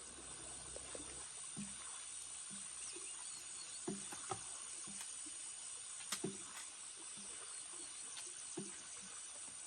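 Scattered light knocks and clunks, the loudest a close pair about four seconds in and another about six seconds in, over steady high-pitched insect chirring.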